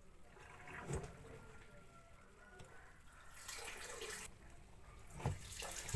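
Water running in short gushes, with a knock about a second in and another near the end.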